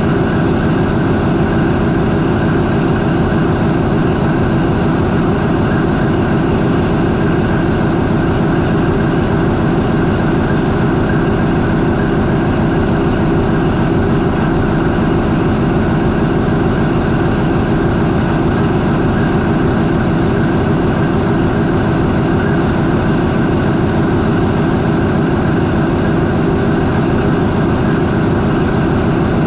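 MAN 20V28/33D STC twenty-cylinder V marine diesel, the main engine of a high-speed ferry, idling at about 400 RPM with a loud, steady, unchanging drone.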